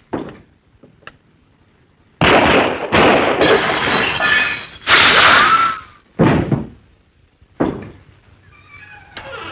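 Cartoon sound effect of crashing and shattering glass: a run of loud crashes from about two to six seconds in, followed by a few shorter hits.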